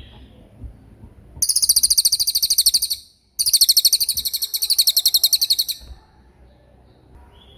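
A small songbird singing two long, very fast, high-pitched rattling trills, the first about a second and a half long and the second about two and a half seconds, with a short break between; this is the rapid 'roll tembak' trill used to train songbirds.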